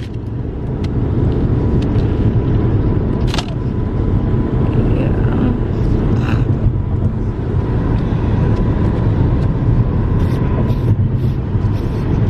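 Steady low road and engine rumble heard from inside a moving car, with a few light clicks.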